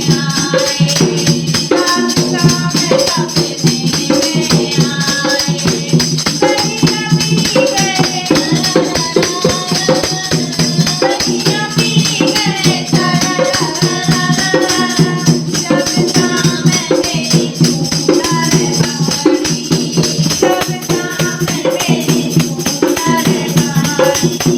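Women singing a Krishna bhajan over a steady, quick rhythmic percussion beat.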